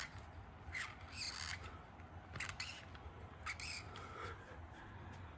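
Felt-tip marker strokes swishing across paper, several short swipes about a second apart, over a faint steady low hum.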